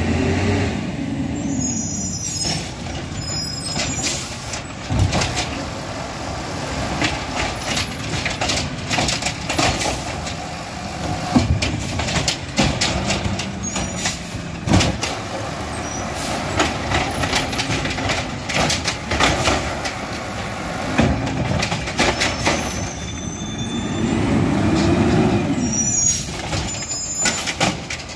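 Garbage truck at work: its diesel engine revs up and down, near the start and again near the end, over many sharp clanks and bangs.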